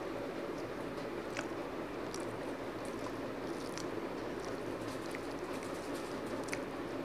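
A person chewing and eating rice and curry by hand, with scattered small wet clicks and smacks of the mouth over a steady low background hum.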